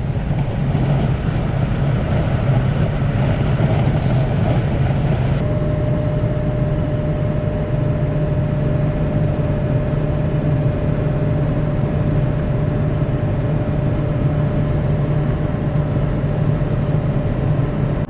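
Steady in-cab drone of a Ford ambulance-conversion truck cruising downhill at about 60 mph: engine and road noise with a deep hum. A thin steady whine joins about five seconds in.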